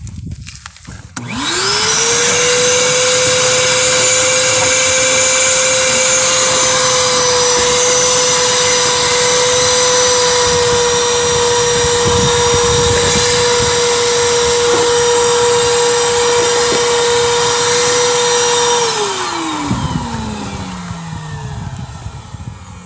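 Electric drain-cleaning machine's motor starting up about a second in, running with a steady high whine for about seventeen seconds, then switched off and winding down with a falling pitch near the end.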